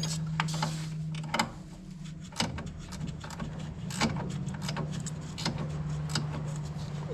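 Scattered sharp clicks and metal knocks from tools and parts being handled while working on the planter's wheel hub and bearings, over a steady low hum.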